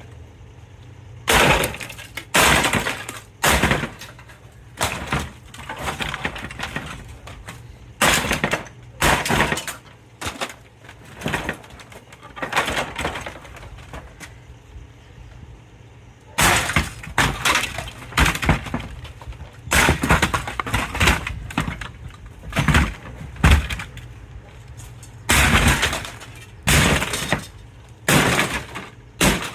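Plastic and glass parts of a 55-inch Sony LED TV breaking and crashing: a long run of loud, short cracks and smashes at irregular intervals, some in quick clusters.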